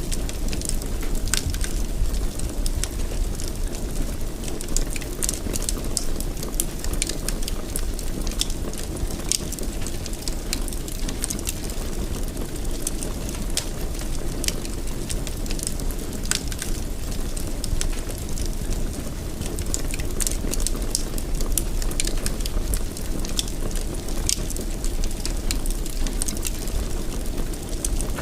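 Fire burning in a fireplace: a steady low rush with frequent, irregular crackles and pops.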